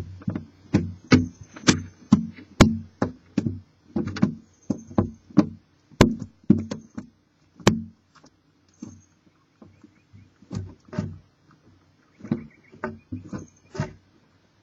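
Irregular knocks and thumps on the wood of a barn owl nest box, about two a second and thinning out after about eight seconds, as the owls move about inside it.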